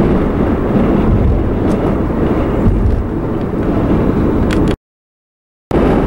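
Steady road and engine noise of a car driving along, heard from inside the cabin. The sound drops out to dead silence for about a second near the end, then resumes.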